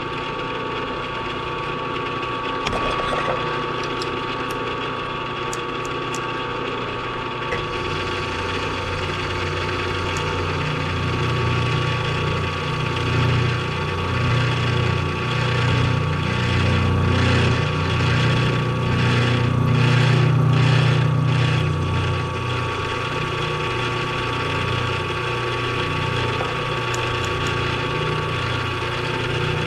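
Milling machine running while its cutter takes a pass, cutting a slot in a steel T-nut blank. The motor holds a steady hum, and a heavier low rumble from the cut builds about eight seconds in and eases after about twenty-two seconds.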